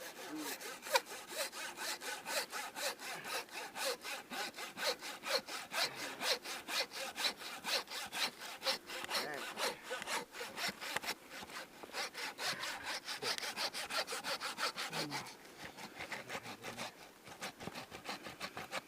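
Hand saw cutting through the moose carcass in quick, even back-and-forth strokes, about three a second. The strokes turn fewer and weaker for the last few seconds.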